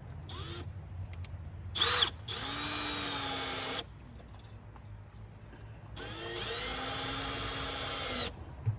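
Power drill driving screws. There are a couple of short bursts, then two steady runs of the motor lasting about one and a half and two seconds, each rising in pitch as it spins up.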